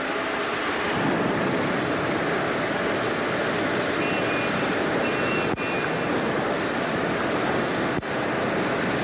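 Steady rushing noise of wind and sea, with wind on the microphone, that dips briefly twice, about halfway through and near the end.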